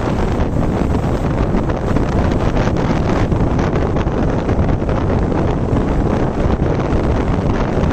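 Strong wind buffeting the microphone in a steady, loud, low rumble, mixed with the rush of a rough sea.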